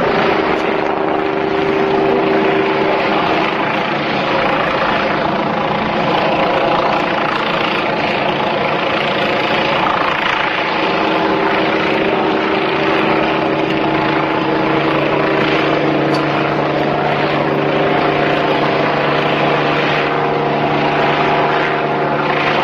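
A small propeller aircraft's engine running steadily and loudly. Its tones shift a little about eleven seconds in.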